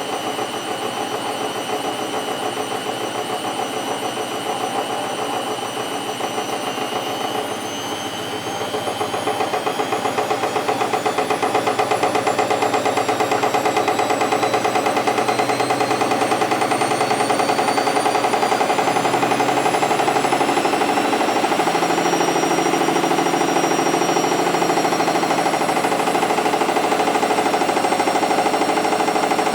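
A 14-year-old Candy Energa 735 washing machine on its spin cycle, humming and rattling loudly with a whistling whine that climbs in pitch as the drum speeds up. It gets louder about ten seconds in, then holds steady.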